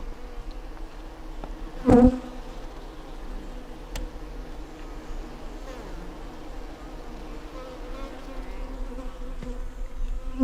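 Honeybees buzzing close around the microphone, a steady drone. About two seconds in, one passes very close and the buzz briefly gets much louder.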